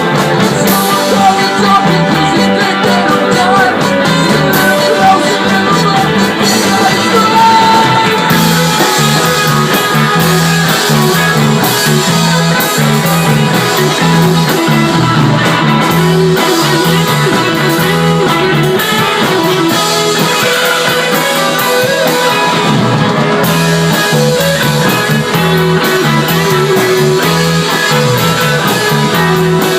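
Live rock band playing a song loudly, with electric guitars, drums and a singer.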